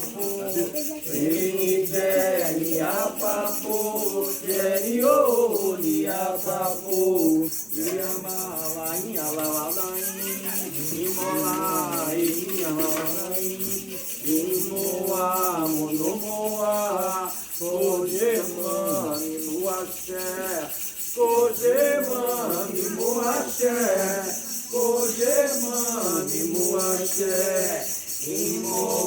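Voices singing a Candomblé chant for Xangô, with a rattle shaken in a fast, steady rhythm throughout.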